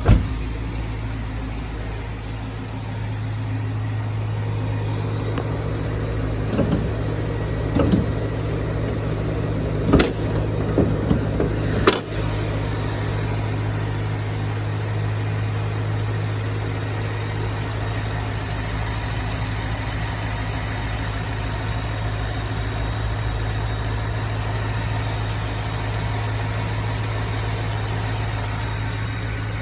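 2015 BMW X6 xDrive50i's 4.4-litre twin-turbo V8 idling steadily, with a few short knocks between about six and twelve seconds in.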